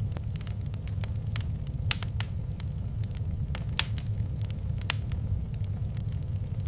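Wood fire burning in a fireplace: a steady low rumble of the flames with irregular sharp crackles and pops, the loudest about two, four and five seconds in.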